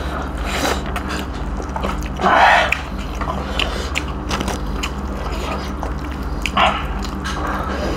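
Close-up eating sounds of two people eating by hand: chewing and biting with small wet clicks, over a steady low hum.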